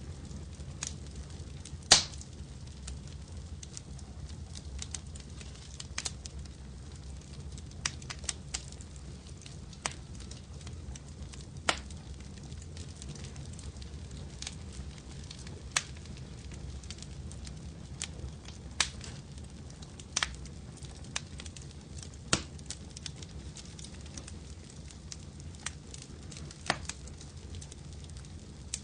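Wood fire crackling in a fireplace: a steady low rumble of flames with sharp, irregular pops, the loudest about two seconds in.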